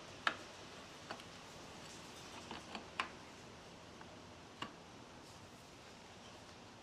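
Scattered light clicks and taps of hand tools and fork parts being handled, about seven irregular clicks in the first five seconds, over a faint steady hiss.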